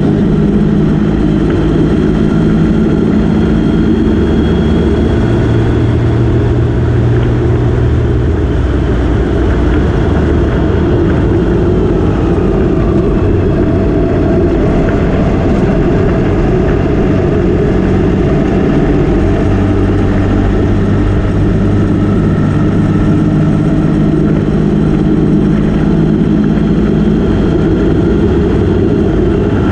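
Motorcycle engine and wind rush heard while riding, with a dense low wind rush under the engine note. The engine note holds steady and shifts in pitch a few times as the revs change.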